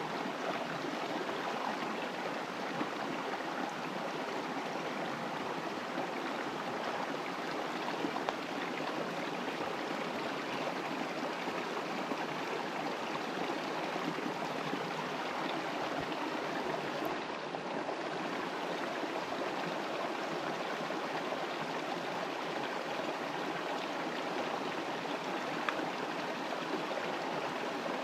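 Steady rushing water, a continuous even hiss from rain or running water in the woodland.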